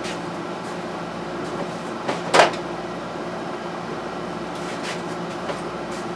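A sharp clack of something being handled, about two and a half seconds in, with a softer knock just before it and a few light clicks later, over a steady mechanical hum.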